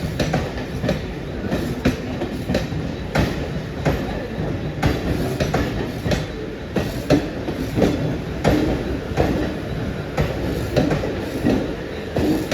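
Mumbai suburban electric local train rolling through the station, its wheels clacking irregularly over rail joints and points above a steady rumble.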